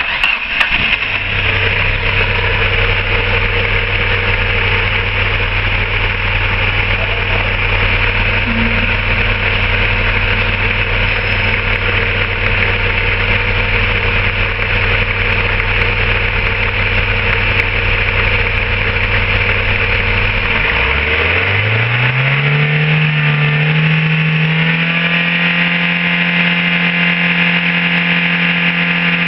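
Hyundai 1.6-litre 16-valve petrol engine starting, then idling steadily. About 21 seconds in, the revs rise smoothly and are held at a steady higher speed.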